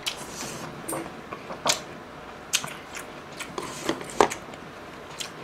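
Close-miked chewing of a mouthful of rice, with a series of short wet smacking clicks from the mouth.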